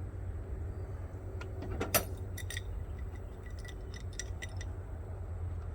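Small metal plumbing fittings and tools clinking as they are handled: a sharp knock about two seconds in, then a run of light clinks.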